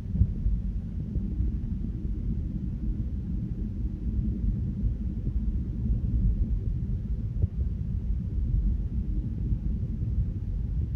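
Jet airliner's engines and airflow during takeoff, a steady low rumble with a faint hum in it.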